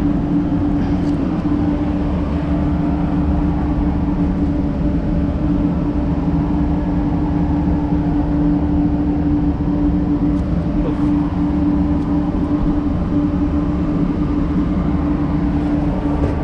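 Steady machine hum with one strong low tone and a rumble beneath, unchanging throughout.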